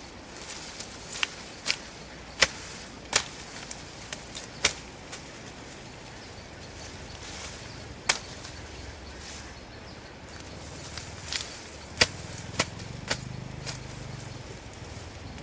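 Irregular sharp knocks, about a dozen spread unevenly, over steady background noise, with a low hum coming in after about ten seconds.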